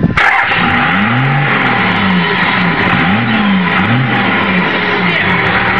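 Vehicle engine revved hard several times in a row, its pitch climbing and falling with each blip, with a steady exhaust rush right at the tailpipe. It is being gunned to blow soot out of the exhaust tip.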